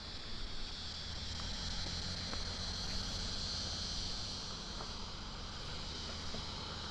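Outdoor insect chorus: a steady high-pitched buzz that swells in the middle and cuts off suddenly at the end, over a low rumble.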